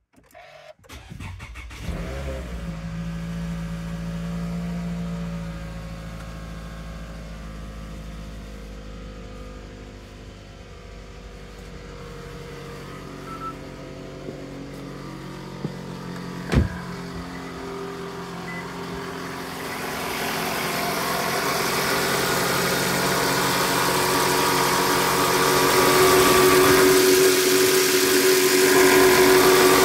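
Toyota Estima engine started with the push button: it catches within the first second or two, runs faster for a few seconds, then settles to a steady idle. A single sharp knock comes about halfway through. Near the end the running engine is heard up close in the open engine bay, louder and brighter.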